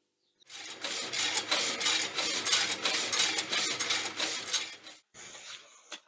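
Metal pieces clattering and clinking together in a dense run of knocks lasting about four seconds, then fading to faint clicks.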